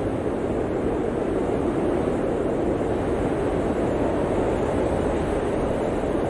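Blizzard wind blowing steadily, a dense, even rush of noise with no gusts or breaks.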